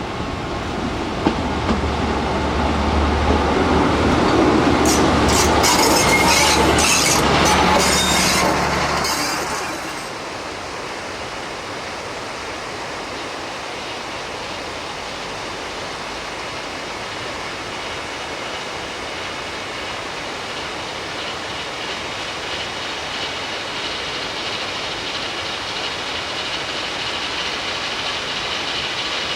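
A train on a rack railway passes close by, its engine humming low, with wheel squeal and clicking from the track. It is loudest about six seconds in and gone by about ten seconds in, leaving a steady hiss.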